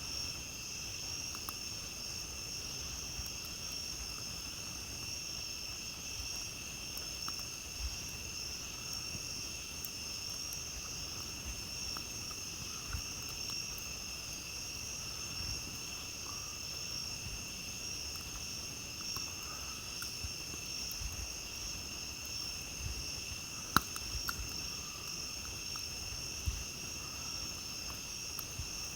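A steady chorus of night insects, their high trilling holding at several pitches throughout. Scattered small crackles and pops from a campfire sound over it, with one sharp, loud snap about 24 seconds in.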